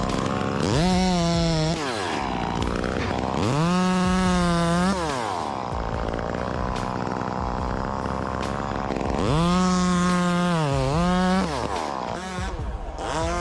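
Two-stroke chainsaw engine revving up to full throttle and dropping back several times, each high-pitched burst held for a second or two.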